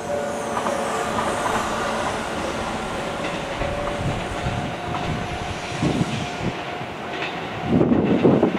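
Electric multi-car train running past on the rails, a steady rumble with a thin steady whine that stops shortly before the end. Gusts of wind buffet the microphone near the end.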